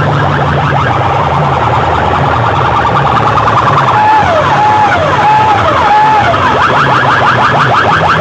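Sound-system loudspeaker boxes blaring a siren-like electronic effect over a deep bass drone. Fast repeating rising chirps run throughout, and midway comes a run of four falling swoops.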